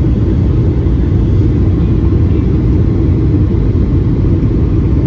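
Steady low rumble of jet engines and rushing air inside the cabin of a Boeing 757-200 on approach.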